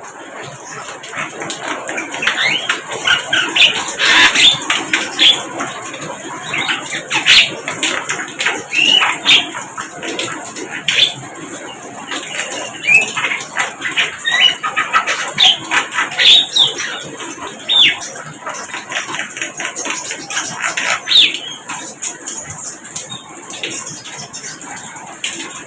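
Sikatan londo flycatcher singing: a run of quick, high chirps and short whistled notes, some rising and some falling, over busy background chatter.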